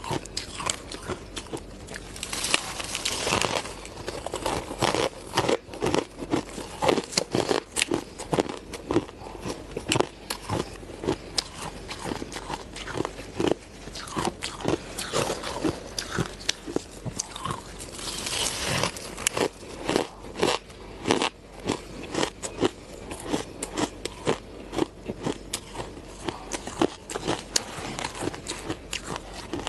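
Close-miked ice being bitten and chewed: a steady run of sharp, crisp cracks and crunches. Heavier crushing bites come about three seconds in and again a little past the middle.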